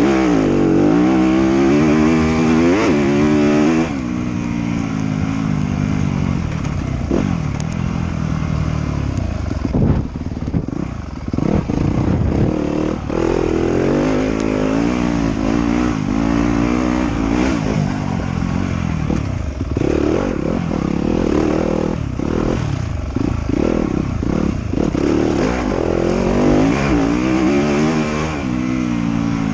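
Off-road motorcycle engine being ridden hard, its pitch repeatedly rising and falling as the throttle is opened and closed.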